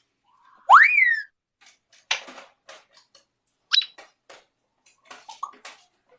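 Parrot calls: a loud whistle that rises then falls about a second in, then a harsh noisy call, a short sharp rising whistle near the middle, and a few short clicks and chirps near the end.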